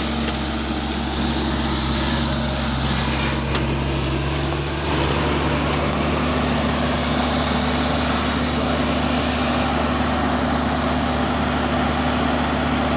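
Excavator's diesel engine running steadily, its note shifting slightly and getting a little louder about five seconds in.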